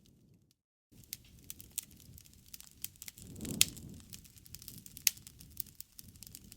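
Wood fire crackling: a steady scatter of sharp snaps and pops over a low rush of flame. The sound cuts out completely for a split second near the start, and about halfway through a louder pop comes with a brief swell of flame noise, followed by another sharp pop.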